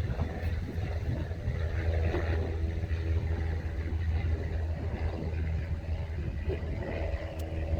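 Wind buffeting the microphone outdoors: a continuous low rumble that rises and falls in gusts.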